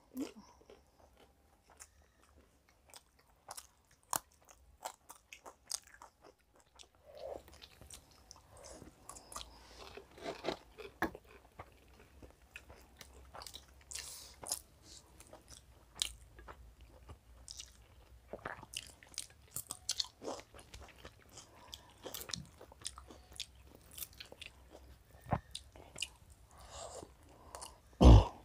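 People eating chicken biryani with their hands: chewing with many short mouth clicks, and one much louder thump near the end.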